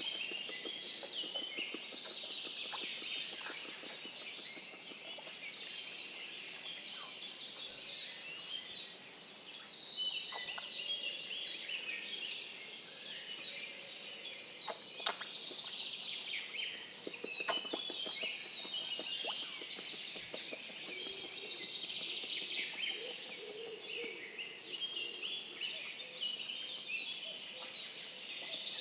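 Several songbirds singing at once: dense, overlapping chirps and trills, busiest about a third of the way in and again after the middle.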